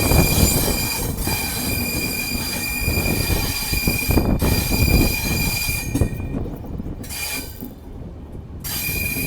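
Train wheels squealing against the rails as the express rolls along: a steady high-pitched squeal over the low rumble of the running coach. The squeal fades out about six seconds in and comes back briefly near the end.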